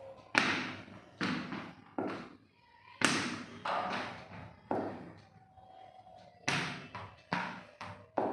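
A series of about nine sharp thuds at an uneven pace, roughly one a second, each followed by a short echoing decay in a room.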